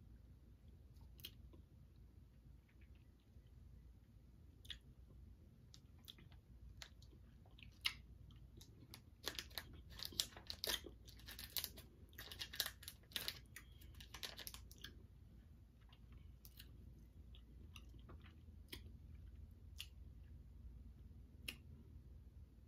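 Faint chewing and mouth noises from a person eating a candy, with sporadic clicks and a denser run of wrapper crinkling and small clicks in the middle, as the plastic candy wrapper is handled.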